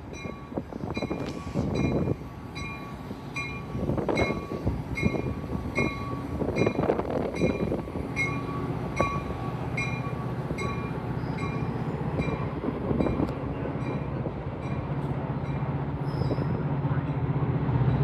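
Metra commuter train pulling out: a bell rings at an even pace, a little under two strikes a second, over the rumble of the diesel locomotive and rolling cars. A steady low engine hum builds from about halfway through.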